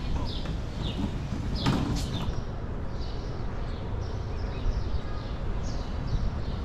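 Small birds chirping in the trees, short high chirps that drop in pitch, repeating about twice a second, over a steady low rumble.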